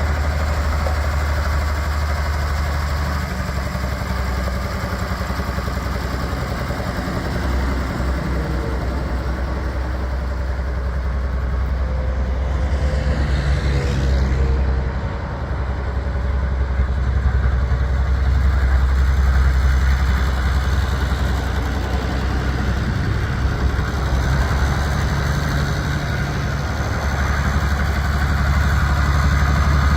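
International 1066 tractor's turbocharged six-cylinder diesel engine idling steadily, briefly dipping in level about halfway through.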